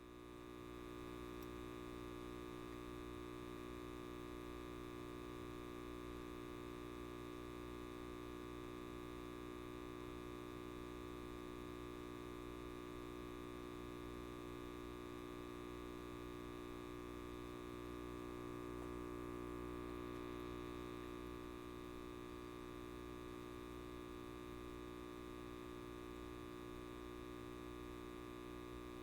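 Light bulb buzzing with a steady mains hum, a faint even drone of many overtones.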